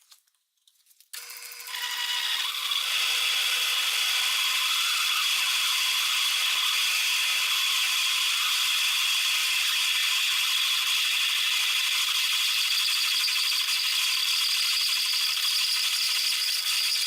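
A century-old Seneca Falls Star 10 lathe running while a 1-inch drill bit cuts through the centre hole of a metal adapter plate: a steady, high-pitched rattling cutting noise that starts about a second in and goes on without a break.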